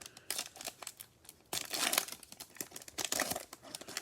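Plastic trading-card pack wrapper being torn open and crinkled by hand: a run of sharp crackles and rips, densest about halfway through.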